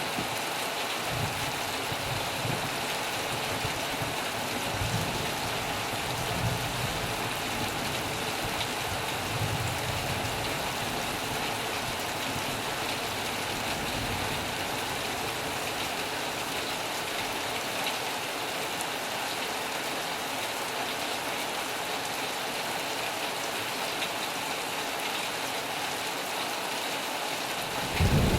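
Heavy rain falling steadily, an even hiss, with low rumbles coming and going in the first half and a louder low rumble rising right at the end.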